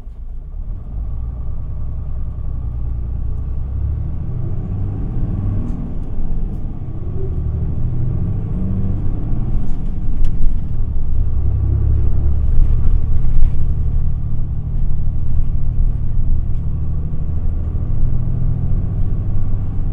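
Isuzu Erga city bus's four-cylinder turbodiesel, heard from inside the cabin, pulling away and accelerating, its note rising and growing louder, with faint rattles and clicks.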